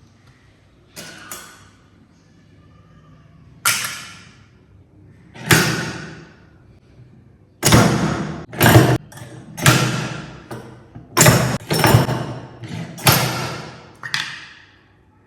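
A series of about a dozen sharp thuds and knocks at uneven intervals, each trailing off over half a second or so, coming faster and louder in the second half.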